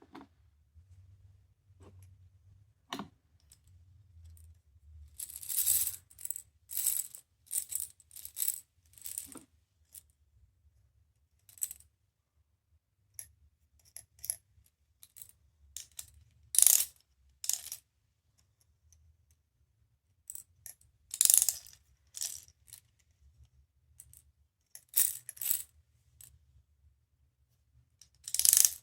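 Small hard plastic pieces clicking and clattering in irregular bursts, with quiet gaps of a second or more between clusters.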